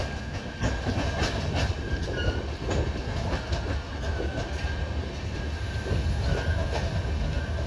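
Indian Railways express train heard from aboard, running along the track: a steady low rumble with irregular clicks of wheels over rail joints and a thin, wavering high wheel squeal.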